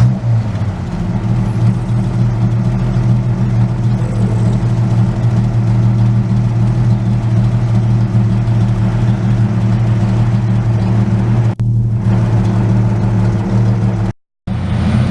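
Gasoline engine of a 1953 Studebaker M108 2½-ton 6x6 crane truck running steadily at idle, with a short break in the sound near the end.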